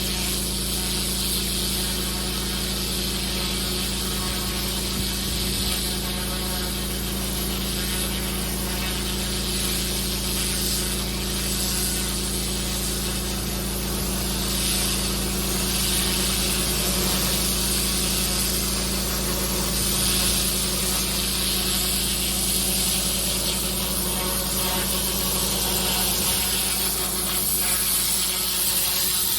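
Pressure washer running steadily: a constant low drone of the motor and pump with the hiss of the water jet, the hiss swelling and fading a little as the spray moves.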